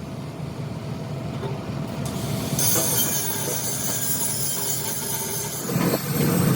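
Steady machine hum, joined about two and a half seconds in by a harsh, high metallic screech and hiss that lasts about three seconds, typical of metal being worked.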